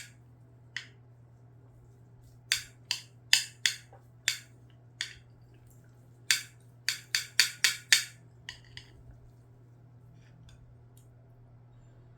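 Eating utensils clicking and clinking against a dish, about a dozen sharp taps in two quick runs a few seconds in.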